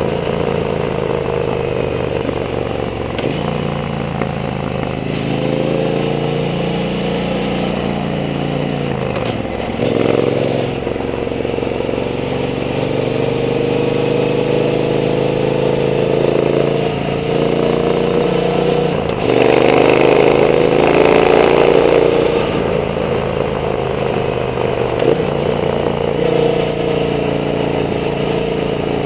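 Triumph Bonneville T120's 1200 cc parallel-twin through a Zard aftermarket exhaust, under way. The pitch climbs through each gear and drops back at the shifts, with the loudest, hardest pull about two-thirds of the way through.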